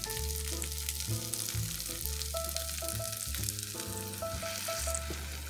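Raw long-grain rice with sofrito and tomato paste sizzling steadily in oil in a pot, with water starting to be poured in near the end. Background music with a bass line plays underneath.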